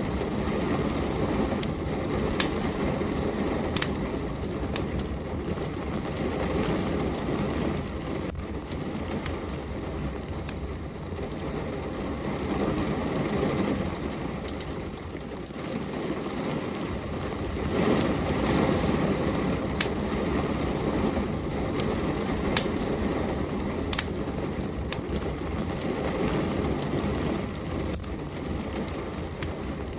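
Steady rain with a wood fire burning, its sharp crackles and pops scattered through the rushing noise. The rain swells a little about two-thirds of the way in.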